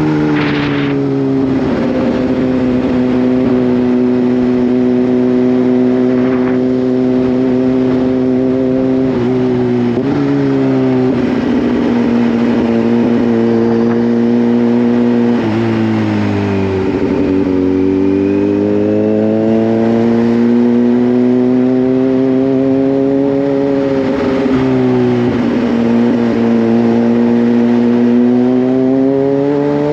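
Kawasaki Z H2 supercharged inline-four motorcycle engine running under way at a steady cruise. Its pitch dips and climbs again several times as the throttle and revs change.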